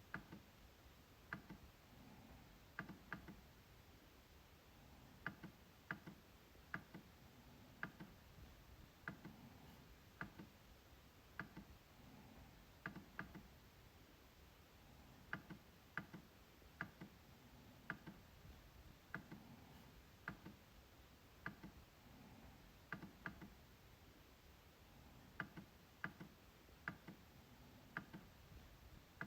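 MacBook trackpad being clicked: sharp, irregular clicks, about one a second, some in quick pairs like double-clicks.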